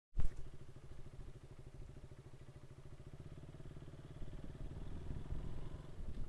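Motorcycle engine running with a steady, even firing beat, after a short loud bump right at the start.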